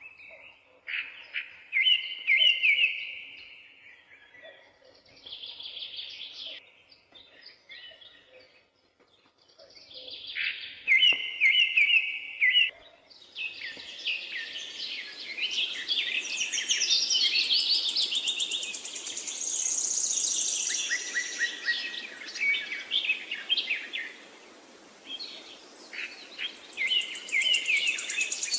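Songbirds chirping and singing in short repeated phrases. About halfway through, a denser chorus of several birds sets in over a steady background hiss.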